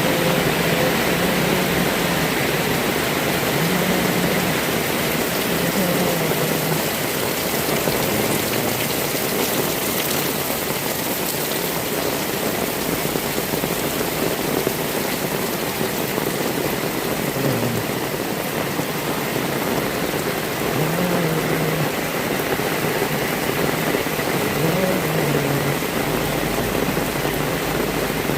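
Heavy rain falling steadily, a dense, even hiss of drops on wet surfaces with no letup.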